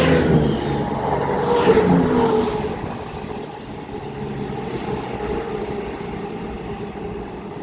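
Diesel train passing by and fading away: engine note with a rhythmic clatter of wheels about once a second for the first couple of seconds, dying down to a steady rumble.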